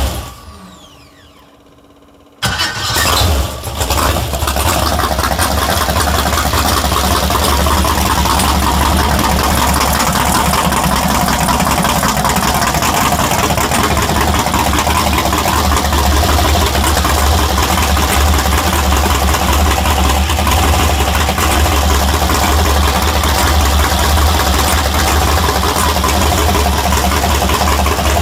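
All-aluminum LS6 V8 in a jet boat on its first firing: the engine dies away with a falling whine at the start. About two and a half seconds in it fires again, stumbles briefly, then settles into a steady, deep-toned idle.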